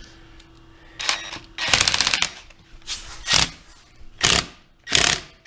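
Power tool run in five short rattling bursts, about a second apart, working on a Polaris RZR's wheel-bearing assembly.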